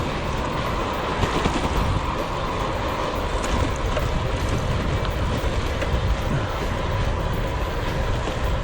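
Steady wind rumble on a chest-mounted action camera's microphone while riding a gravel bike, mixed with the rolling noise of the tyres.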